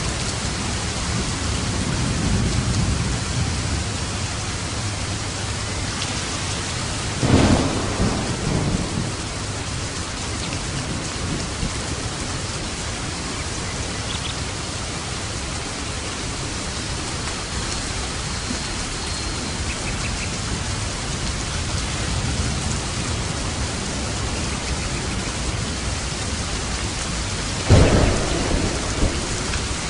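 Steady heavy rain falling on a roof, with rolling thunder: a sharp thunderclap about seven seconds in and another near the end, and low rumbles between.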